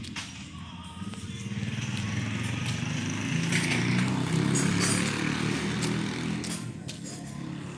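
A motor vehicle's engine rumble passing by, growing louder to a peak around the middle and then fading, with a few faint clicks over it.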